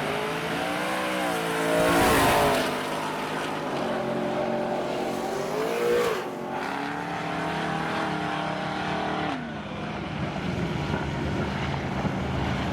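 Drag-racing truck engine revving hard, its pitch climbing to a loud peak about two seconds in, dropping, climbing again midway and falling away near the end.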